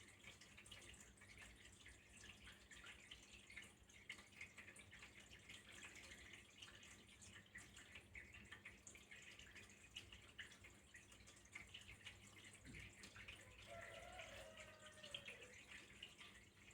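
Faint water trickling and dripping, many small irregular drops and splashes over a steady flow. About two-thirds of the way in, a faint tone slides down in pitch.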